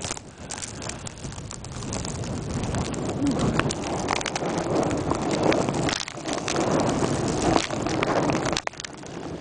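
Blizzard wind gusting against the camera's microphone, which is wrapped in plastic wrap, building over several seconds and dropping off sharply near the end, with scattered clicks and rustles.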